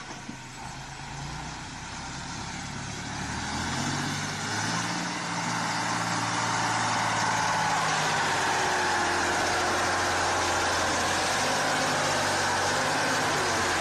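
Truck engine running with a low steady hum under a wide rushing noise that grows louder over the first eight seconds or so and then holds steady.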